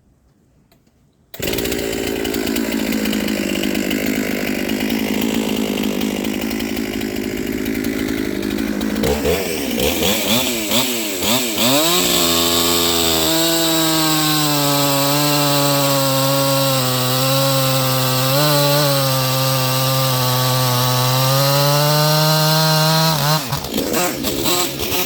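Chainsaw running at high revs while bucking logs into firewood rounds. It cuts in suddenly about a second in, changes around nine seconds in, then holds a steady pitch with slight dips under load.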